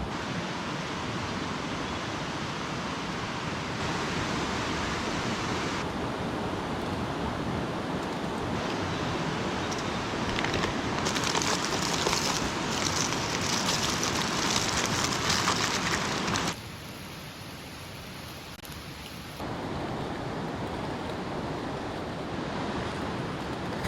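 Steady rushing outdoor noise with no distinct events, in several stretches that change level and tone abruptly, loudest and hissiest for a few seconds past the middle and dipping quieter shortly after.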